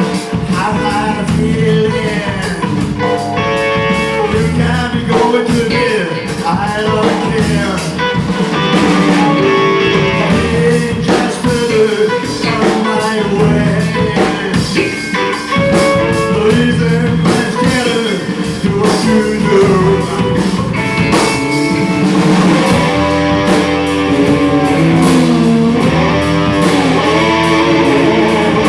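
A live band playing a blues-rock song: electric guitar over bass and drums, with a singing voice at times.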